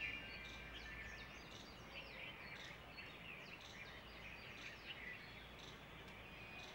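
Small birds chirping: many short, falling chirps, several a second, over a faint steady background hiss.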